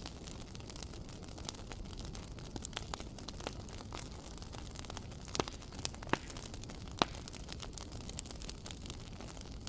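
Wood fire in a fireplace crackling: a steady low rumble of flames with irregular sharp pops and snaps, a few louder ones in the middle.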